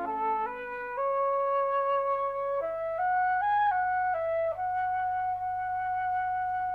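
Background music: a slow solo flute melody of held notes stepping up and down, ending on one long held note.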